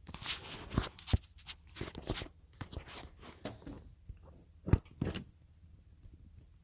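Tools being handled on a workbench: a quick run of clinks, knocks and scraping rustles for about four seconds, then a couple of sharper knocks about five seconds in.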